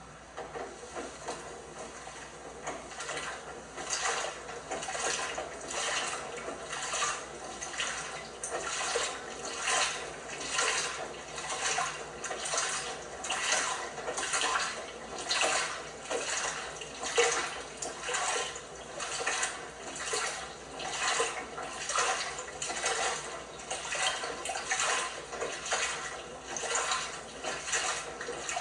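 LG washing machine mid-wash, water and the load sloshing in the turning drum in even surges, about one and a half a second, growing stronger about three seconds in.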